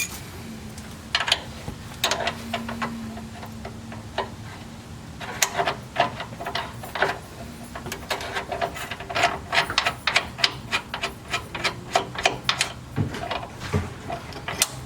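Metal hand tools clicking and clinking during work on a Jeep's suspension, scattered clicks at first, then a quick run of ticks from about the middle on.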